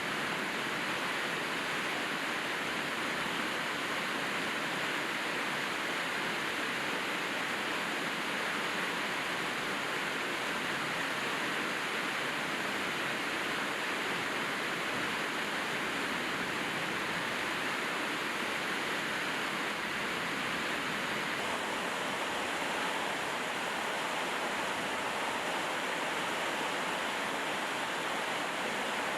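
Steady heavy rain, an even hiss that holds at the same level throughout with no single drops or knocks standing out.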